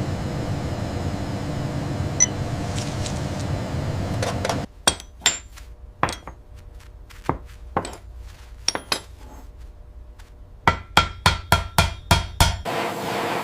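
Steady low rumbling noise, cut off suddenly about four and a half seconds in, followed by sharp metallic taps: a few scattered ones, then a quick run of about eight taps near the end, like a small hammer striking metal.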